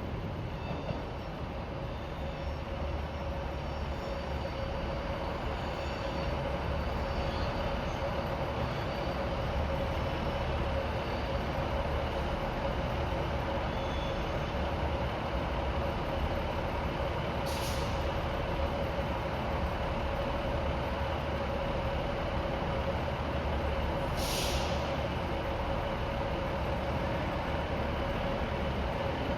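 A train standing in the station with its engine and equipment running as a steady hum with a constant tone. Two short hisses of air from the brake system come a few seconds apart, past the middle.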